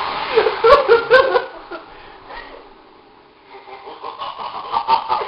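A group of people laughing, loudest in the first second and a half, then dying down, with more giggling toward the end.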